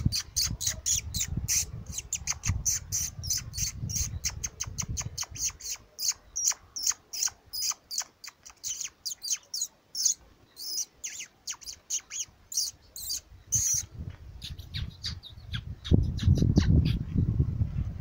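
Birds calling in a rapid string of short, sharp high notes, several a second, thinning out after about fourteen seconds. A low rumble comes in under them for the first five seconds and again near the end.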